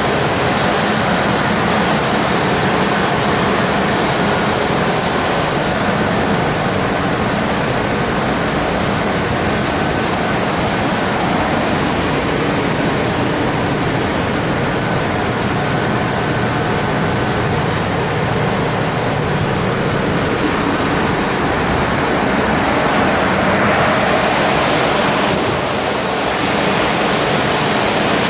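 Bulk carrier's engine-room machinery running: a loud, steady din.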